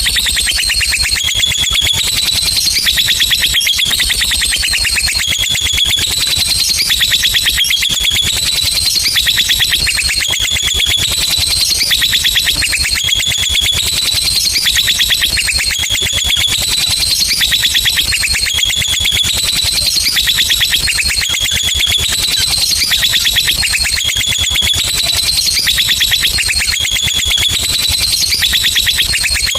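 Lovebird singing a long, unbroken 'ngekek' trill: a very rapid, high-pitched chatter that steps up and down in pitch every second or so and never pauses.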